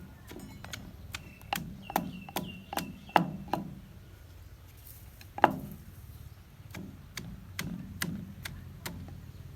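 Irregular sharp wooden knocks while papaya salad is being made, about a dozen or more at uneven intervals, the loudest about three and five and a half seconds in.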